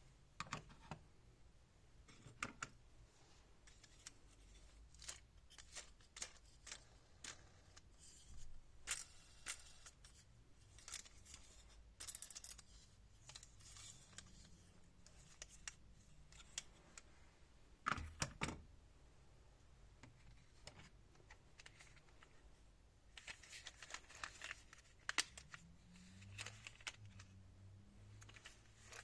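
Faint, scattered clicks and light handling noises, the sort made by handling small plastic toys, with a louder knock about eighteen seconds in and a busier patch of clicks near the end.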